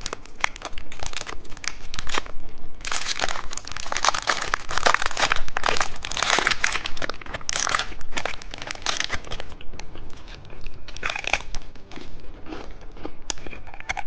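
Candy wrappers crinkling and tearing as candy is unwrapped by hand, a dense run of crackles and sharp clicks that thins out in the last few seconds.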